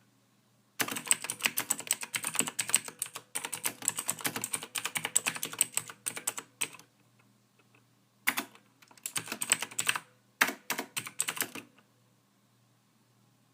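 Typing on a computer keyboard: quick runs of key clicks in bursts of several seconds, with short pauses between them, stopping about two seconds before the end.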